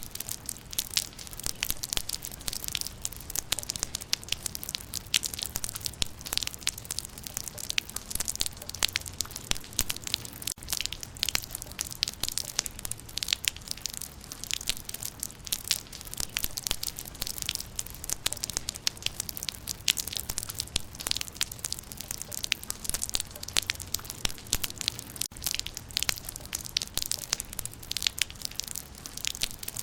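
Rain falling on leaves: a dense, uneven patter of drops striking foliage, steady throughout.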